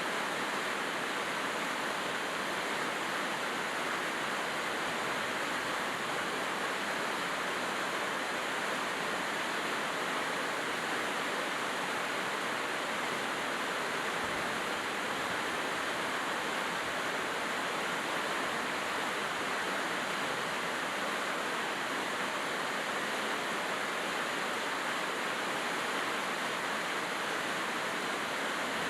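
Rain falling steadily: an even, unbroken hiss with no separate drops or other sounds standing out.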